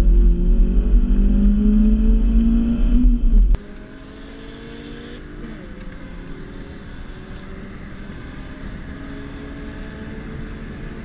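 Inside a Ford Fiesta ST, its four-cylinder engine accelerating hard with rising pitch. About three and a half seconds in, the sound cuts to the quieter cabin of a BMW 328i, its straight-six engine also accelerating with a rising pitch.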